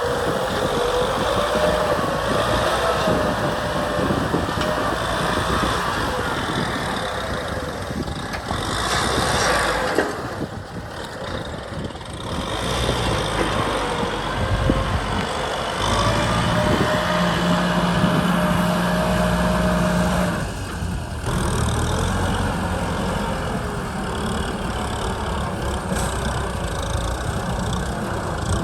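Kubota M6040 SU tractor's diesel engine running continuously, its note shifting up and down. It drops in loudness for a couple of seconds about ten seconds in.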